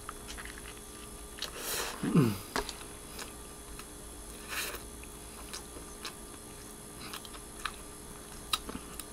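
A person biting into and chewing a hamburger close to the microphone: small wet mouth clicks throughout, a short falling hum of the voice about two seconds in, and two brief hissing rushes.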